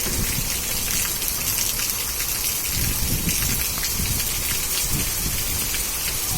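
Heavy rain falling, a steady hiss of a downpour with irregular low rumbles underneath.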